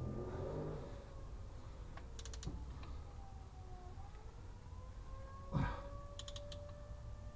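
Short runs of rapid clicking from a ratchet spanner tightening a transfer-case plug, twice, with a single knock of the tool against metal between them.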